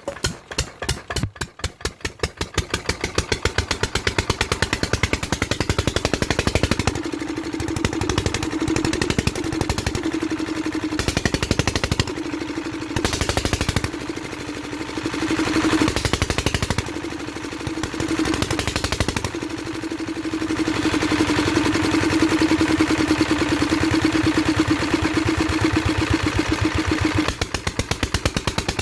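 Kirloskar diesel engine catching on a cold start after about ten years out of use: slow firing beats quicken within the first two seconds into a steady running beat with an even hum. The level dips and swells in the middle, and it runs steadiest and loudest near the end.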